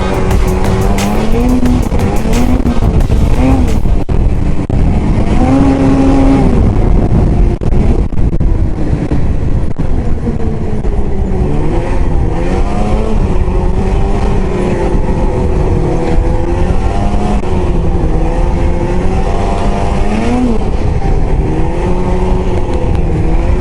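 Arctic Cat ZR 8000 snowmobile's 800 C-TEC two-stroke twin running under way, its engine note rising and falling repeatedly as the throttle is worked.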